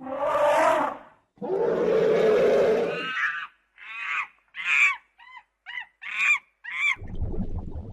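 Animal calls: two longer calls, then a quick run of about seven short calls, each falling in pitch.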